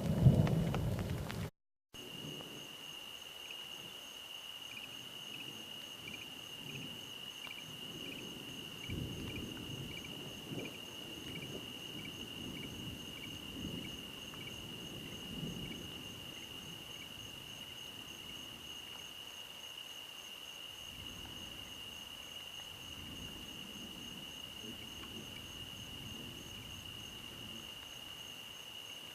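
Rain and thunder, loud for the first second and a half, cut off abruptly. After that, night insects trill in a steady high drone, with a quicker run of chirps through the first half and faint low rumbles now and then.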